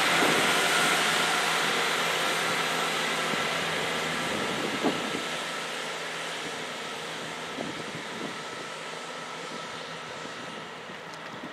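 Class 158 diesel multiple unit pulling away past the platform, its engine and wheel noise fading steadily as it recedes.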